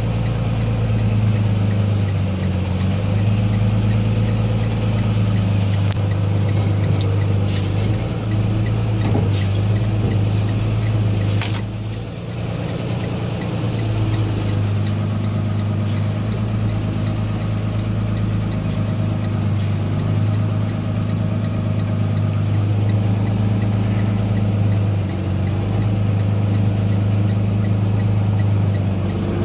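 Box truck's Cummins diesel engine running steadily at low speed, its deep hum easing briefly about twelve seconds in. A few sharp ticks come over it in the middle.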